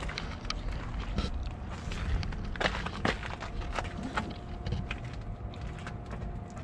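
Footsteps of a person walking, irregular short scuffs and clicks over a steady low outdoor rumble, with a faint steady tone in the background during the second half.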